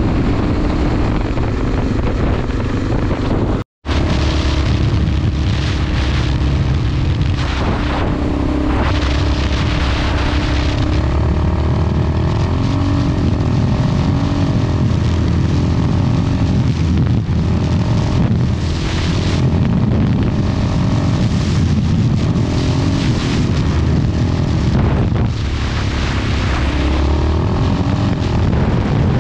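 Enduro motorcycle engine running under load, its pitch rising and falling with throttle and gear changes, with heavy wind buffeting on the microphone. The sound cuts out completely for a moment a little under four seconds in.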